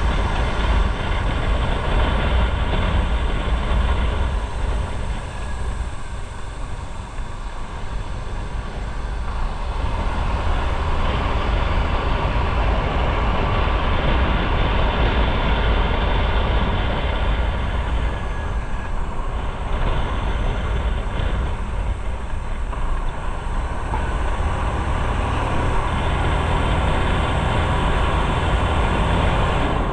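Motorcycle riding on the road: the engine running under a heavy, steady rumble of wind on the microphone, a little quieter about six to nine seconds in.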